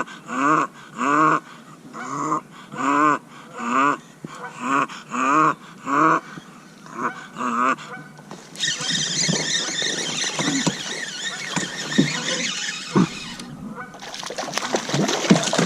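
An animal calling over and over, short pitched calls about two a second, for the first eight seconds; then a dense, noisy rush takes over for the rest.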